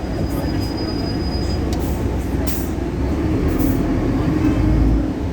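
Onboard sound of a Solaris Urbino 18 articulated bus under way, its DAF Paccar PR265 diesel engine and running gear giving a steady low rumble that grows louder toward the end. A thin high whine sounds for about a second and a half near the start, and a few brief rattles come in the middle.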